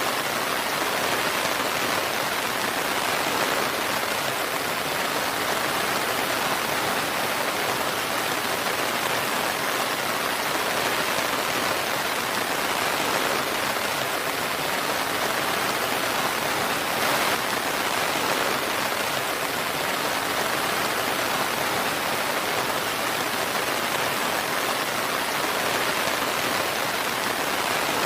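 Steady rain falling, an even unbroken hiss of drops with no thunder.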